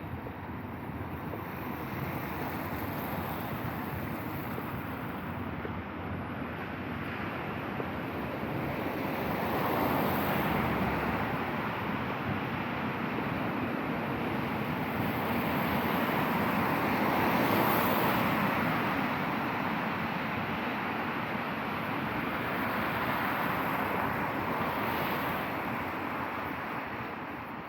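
Traffic on a wet road: a steady hiss of tyres on wet asphalt that swells and fades twice as vehicles pass.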